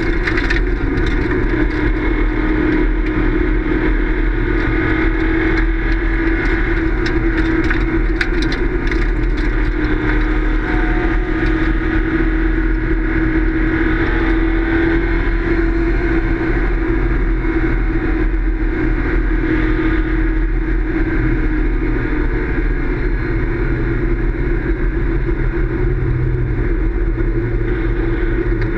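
Race car engine running hard and steady, its pitch drifting slightly up and down without cutting out.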